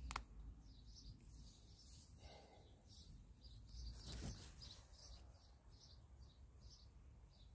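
Faint, high, short bird chirps repeating a few times a second, with a brief handling knock about four seconds in.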